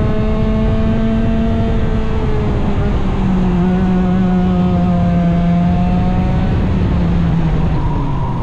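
Small 100cc racing engine running hard at high revs. Its pitch eases down about three seconds in, holds fairly steady, then drops again near the end.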